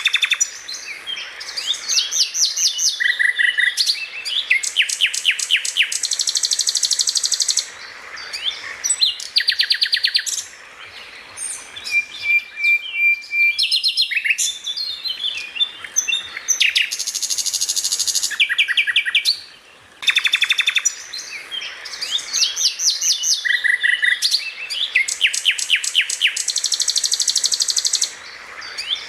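Songbird singing a fast, varied song of rapid trills, chirp series and high repeated notes, with short pauses between phrases. The same run of phrases comes round again about 20 seconds later.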